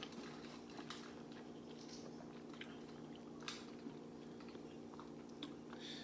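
Faint, close-miked eating sounds: soft chewing with a few short clicks and crackles, over a steady low hum.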